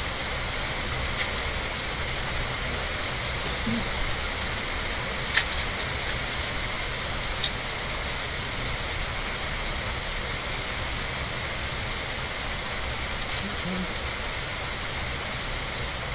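Steady rain falling, an even hiss, with two sharp clicks about five and seven and a half seconds in.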